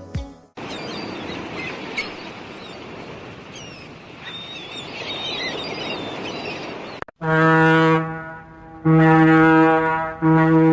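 Underwater-sounding noise with dolphins whistling: several short, wavering high whistles that rise and fall. From about seven seconds in, a deep horn sounds three long blasts at the same pitch.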